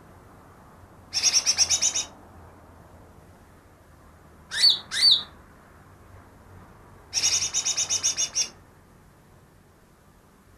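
Green leafbird (cucak ijo) singing: a quick rattling run of high notes about a second in, a pair of fast whistled swoops that rise and fall, then another longer run of rapid high notes about seven seconds in.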